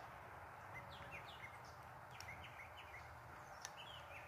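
Faint bird chirps, many short quick high notes scattered throughout over a low outdoor hiss, with a single small click about three and a half seconds in.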